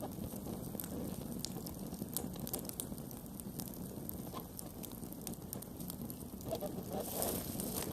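Wood campfire burning: a steady low rumble of flame with scattered sharp crackles and pops, and a brief louder hiss about seven seconds in.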